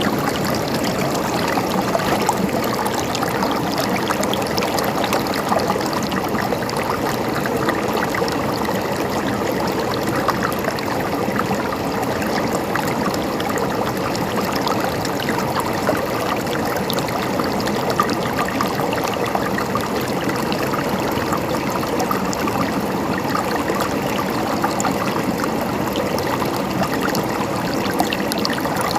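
Shallow stream of water gurgling and trickling in a steady flow, with many small splashes.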